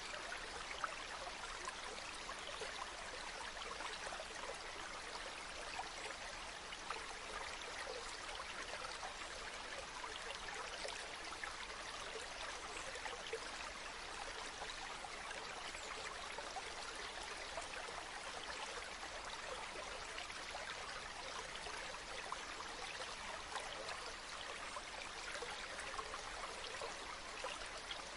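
Stream water flowing steadily, a continuous rushing trickle with many small splashes.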